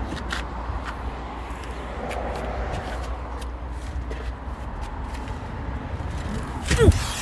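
Steady low rumble of a car engine idling, with scattered light clicks and a brief louder sound with a falling pitch near the end.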